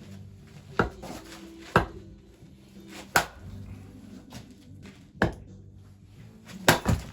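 Axe strikes splitting firewood: six sharp chops at uneven intervals, the last two coming close together near the end.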